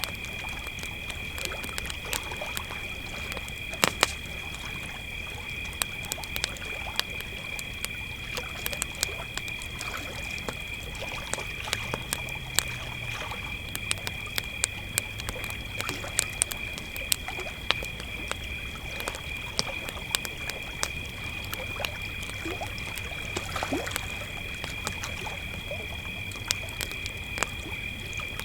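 Crickets chirping in a steady, unbroken trill at two high pitches, with a campfire crackling in frequent sharp pops and clicks. A faint low hum comes and goes in the background.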